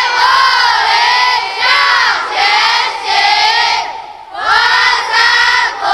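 A group of schoolchildren shouting together in unison, a chant of several drawn-out phrases with a short break about four seconds in.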